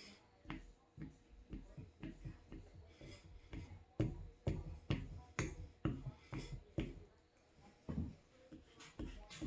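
Block plane iron stropped on bare leather over a granite plate: quick rhythmic strokes about two a second, each ending in a light click, with a short pause near the end before the strokes start again.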